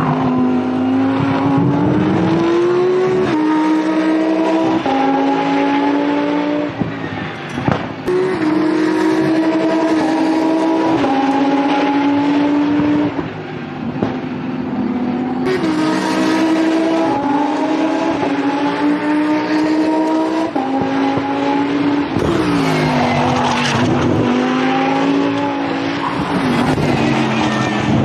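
Lamborghini Essenza SCV12's naturally aspirated V12 running hard on track. Its pitch climbs and drops back at each upshift, over and over, and falls away through downshifts near the end before pulling up again.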